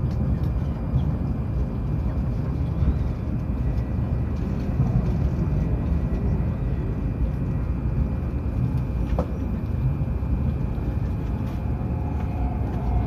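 Steady low rumble of a Hokuriku Shinkansen train running, heard from inside the passenger cabin, with a faint steady whine over it.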